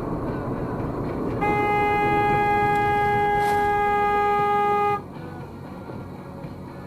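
A car horn sounding one long, steady honk of about three and a half seconds over road noise from a moving car, then cutting off suddenly.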